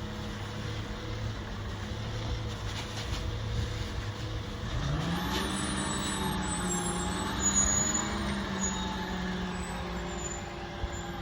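Garbage truck engine running at a low idle, then speeding up about five seconds in and holding a steady higher speed.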